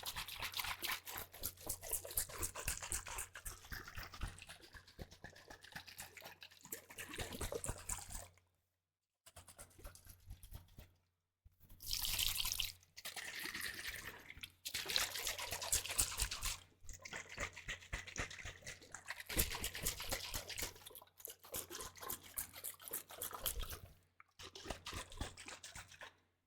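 Wet, crackly swishing and dripping of a thin liquid worked close to the microphone. It comes in stretches of a few seconds with short breaks between them.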